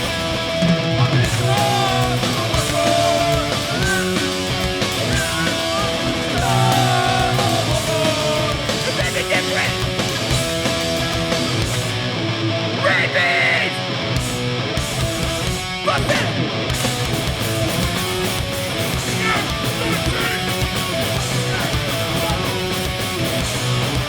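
Live hardcore punk band playing an instrumental stretch: distorted electric guitars, bass and drums.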